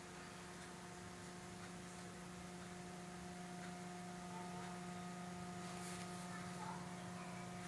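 Faint, steady hum: one low pitch with several steady overtones that holds unchanged, with a few faint light ticks.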